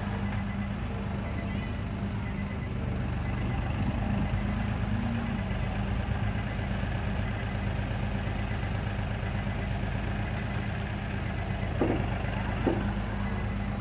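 Tractor engine running steadily at a low, even hum. Two short knocks come about a second apart near the end.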